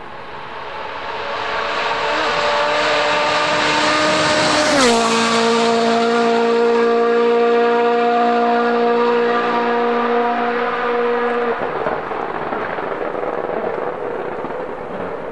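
Rally car passing flat out: its engine note grows louder on the approach, drops in pitch as the car goes by about five seconds in, holds a steady note as it pulls away, then cuts off near the end, leaving fading tyre and road noise.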